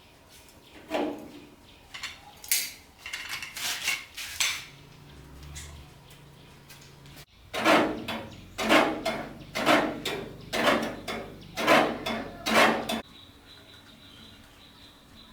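Metal tools and parts clinking and knocking at a repair job: a few scattered clinks, then about ten regular ringing metal strikes, roughly two a second, that stop suddenly near the end.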